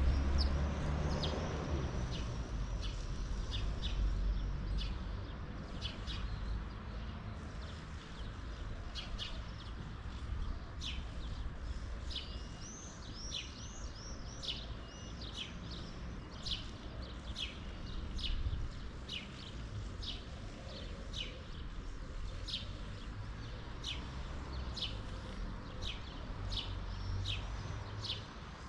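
Songbirds chirping: many short, quick chirps following one another, with a brief run of warbling notes midway, over a low steady rumble.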